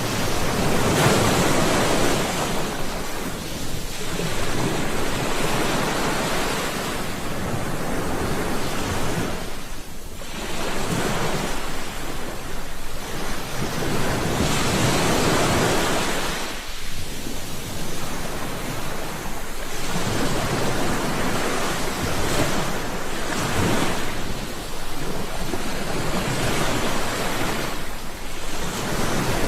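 Sea waves breaking and washing on a shore in a steady rushing surf, swelling and ebbing every few seconds.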